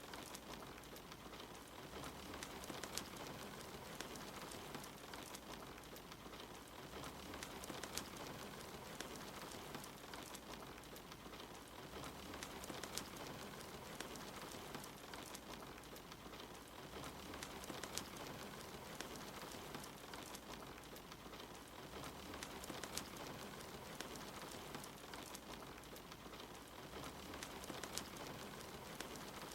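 Steady rain mixed with a wood fire crackling in a fireplace, with sharp pops scattered throughout.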